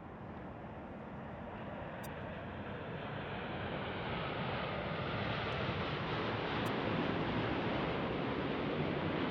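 Jet airliner engine noise that grows steadily louder over about seven seconds as the aircraft draws near, then holds near its loudest.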